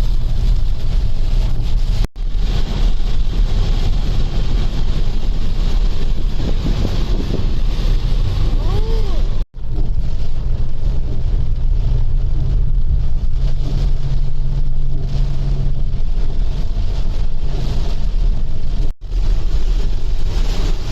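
Steady rain with wind buffeting the microphone, a dense rushing noise with a heavy low rumble. The sound drops out for an instant three times.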